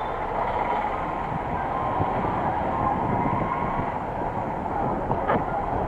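Steady rumble and rush of a vehicle driving along a road, with one short click about five seconds in.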